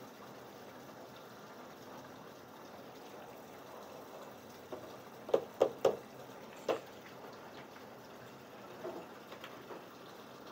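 Steady faint noise of running or moving water, broken a little past the middle by four sharp knocks: three in quick succession, then one more.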